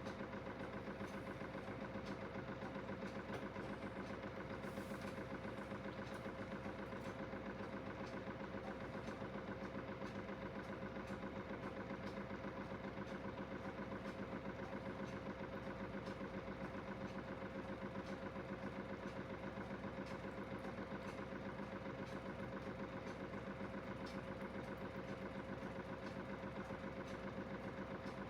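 Aidoo 1 kg direct-drive mini washing machine running, a steady motor hum that holds one pitch, with a fast, even pulsing and no pauses.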